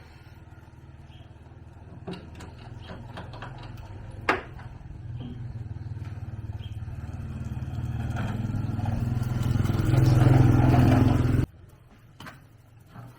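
Small engine running steadily, growing louder over several seconds, with a single sharp click about four seconds in; the sound cuts off suddenly near the end.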